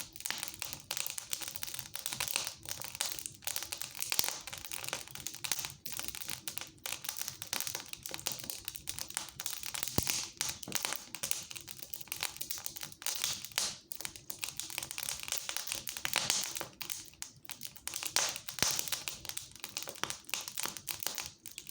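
Fire crackling in a fireplace: a dense, steady crackle with frequent sharp pops.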